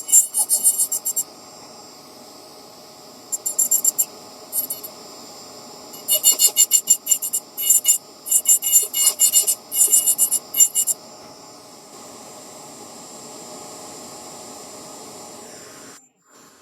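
Small electric rotary carving tool running steadily, with repeated bursts of high-pitched rapid grinding as the bit works against the nut shell during polishing; the motor stops near the end.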